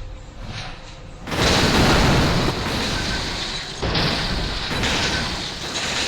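Train passing close at speed: a sudden loud rush of noise begins about a second in and keeps going, with surges of wind on the microphone.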